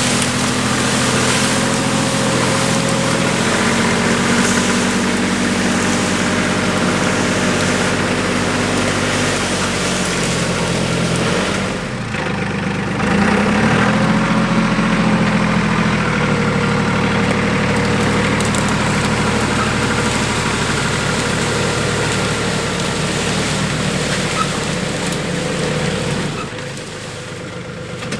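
Compact tractor's diesel engine running steadily, its pitch shifting a little, with a brief dip about twelve seconds in and a drop to a lower, quieter run near the end.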